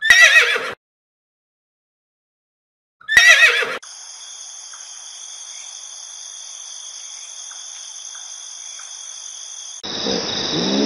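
Horse whinnying: two short, loud whinnies with a wavering pitch, about three seconds apart. A steady high-pitched hiss with faint scattered clicks follows, and a lower, rougher sound begins near the end.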